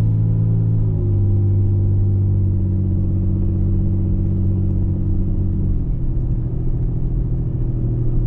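Car driving, heard from inside the cabin: a steady low engine and road drone. Its pitch dips briefly about a second in and steps up slightly near six seconds.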